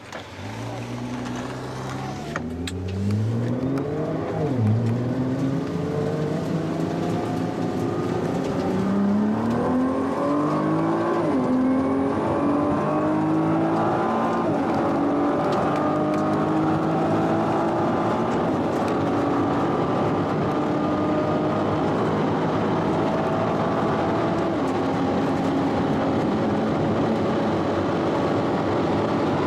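Nissan GT-R's twin-turbo V6 accelerating hard from a standing start, its engine note climbing and dropping back at several upshifts in the first fifteen seconds or so, then holding a high, steady drone at speed. The upshifts are made automatically by the dual-clutch gearbox, because its manual R mode was not selected.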